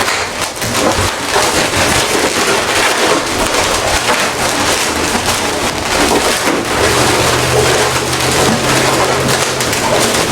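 Latex 360 modelling balloons handled and twisted close to the microphone, giving a continuous dense rubbery crackle and rubbing. A low steady hum joins in during the second half.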